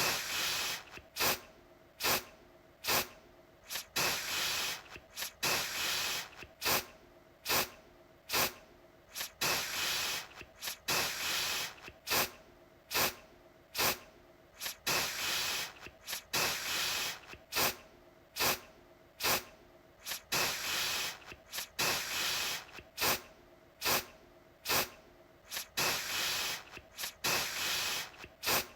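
Aerosol deodorant can spraying in a run of short hissing bursts, about one or two a second, with some longer sprays of about a second between them.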